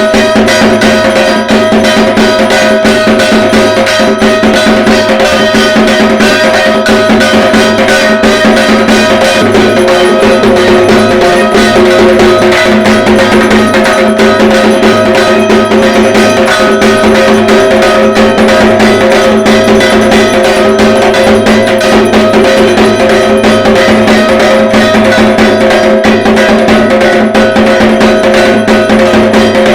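Dhak, the large Bengali barrel drum, beaten with sticks in a fast, unbroken Durga Puja rhythm, with a steady metallic ringing over the beat.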